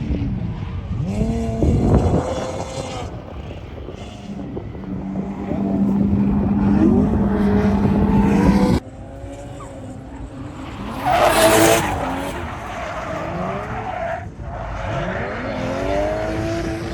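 Drift car engines revving up and down with tyres squealing and skidding; in the middle stretch one engine holds a steady high rev for several seconds before the sound breaks off abruptly.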